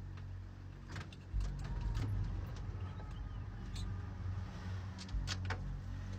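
An engine running steadily with a low hum, with several sharp clicks and knocks on top, the loudest about a second and a half in and two close together about five seconds in.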